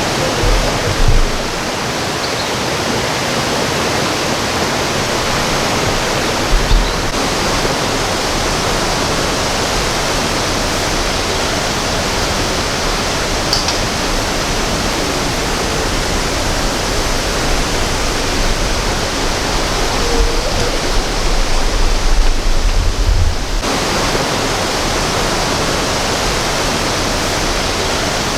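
Heavy rain falling steadily in a dense, even downpour. Low thumps come near the start, about seven seconds in, and again around the twenty-second mark.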